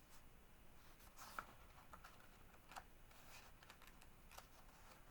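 Near silence, with a few faint rustles and clicks from handling the pages of a picture book.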